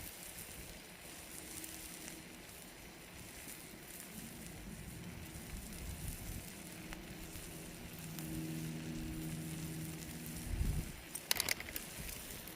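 Wood campfire burning with a soft hiss and faint crackles. About halfway in, a low steady hum joins it, and near the end a quick cluster of sharp pops or clicks stands out as the loudest sound.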